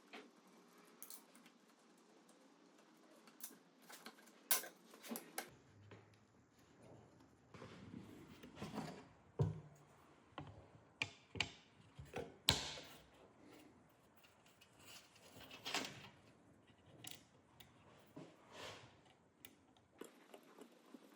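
Quiet, irregular clicks, taps and rubbing from small parts being handled on a workbench during knife-handle work, with a few sharper knocks about four and a half, nine and twelve and a half seconds in.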